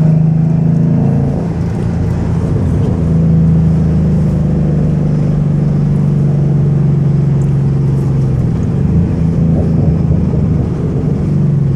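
2014 Ford Mustang GT's 5.0 L V8 running through an aftermarket Roush exhaust under way, a deep, steady exhaust note that changes pitch a few times as the car goes through the gears.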